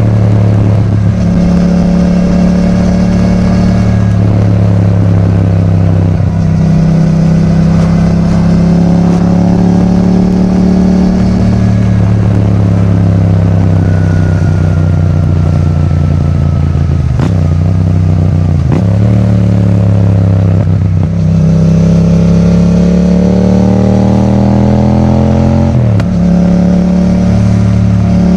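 Yamaha MT-07's parallel-twin engine running through an Akrapovic titanium exhaust while riding. Its note climbs under acceleration and drops sharply at several gear changes.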